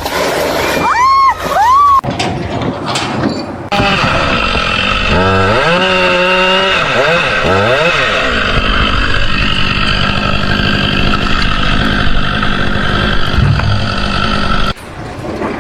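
An engine running steadily, its pitch rising and falling several times as it is revved.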